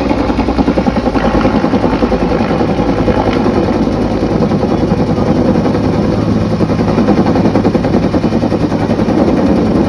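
An engine running steadily, with a fast, even pulsing beat throughout.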